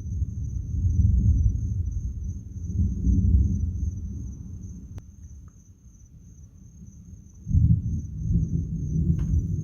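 Thunder rumbling in rolling swells that die away, then a new peal breaking in suddenly about three-quarters of the way through. A steady high insect trill runs underneath.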